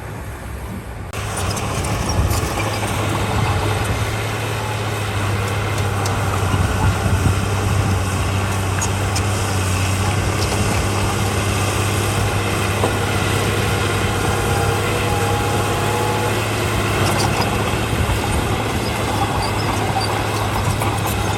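Heavy diesel earthmoving machinery running steadily, with a low engine hum and scattered sharp metallic clicks and clanks. The noise grows louder about a second in.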